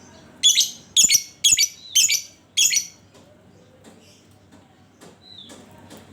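Lovebird calling: five loud, harsh, shrill calls in quick succession during the first three seconds, then softer scattered chirps.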